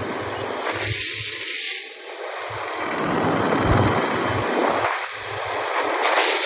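Wind and road noise from a moving motorcycle: a steady rush, with low buffeting that comes and goes.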